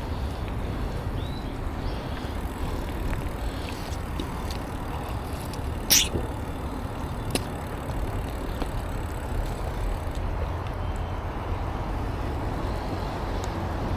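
Steady low rumble of wind and tyre noise from a bicycle riding along a road. A sharp click comes about six seconds in and a fainter one a second later.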